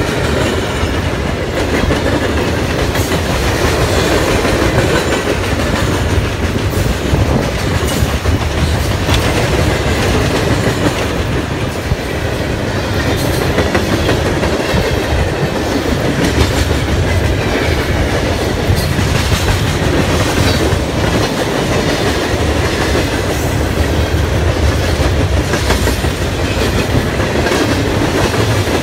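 Freight train of CSX coal hoppers and coke gondolas rolling past, steel wheels clicking over rail joints above a steady rumble.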